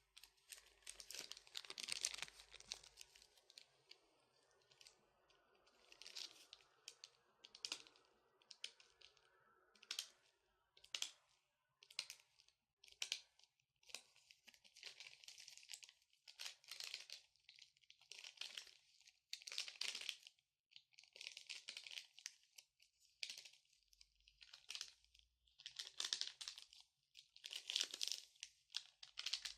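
Long natural fingernails tapping and scratching, quiet, in quick clusters of sharp clicks and scratchy rustles with short pauses between.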